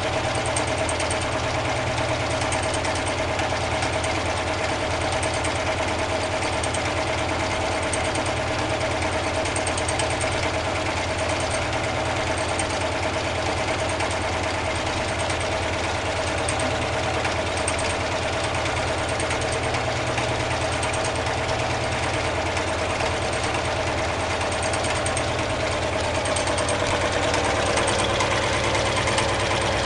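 Home-made four-cylinder double-acting alpha Stirling engine running steadily, an even mechanical hum with a steady tone, growing a little louder near the end.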